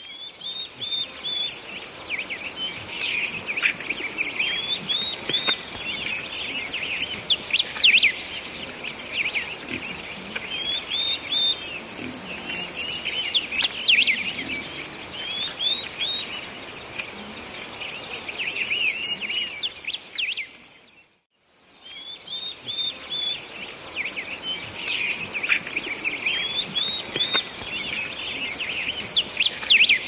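Several birds chirping and calling over a faint steady hiss, in short high chirps and quick falling phrases. The sound cuts out briefly about 21 seconds in and the same birdsong begins again, like a looped nature recording.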